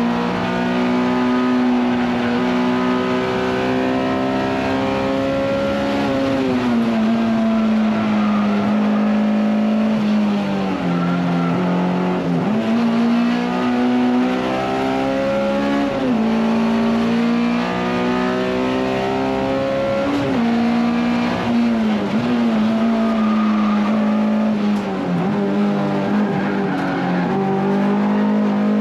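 Honda S2000 race car's F22C four-cylinder engine at high revs, heard from inside the cabin on a hot lap. The engine note holds high, then dips and climbs back again several times as the car works through gears and corners.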